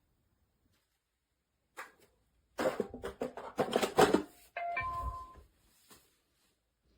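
Narwal S30 wet-dry vacuum mop being docked in its charging base: a click, then a couple of seconds of plastic clattering and knocking as it seats. About five seconds in comes a short electronic chime from the machine.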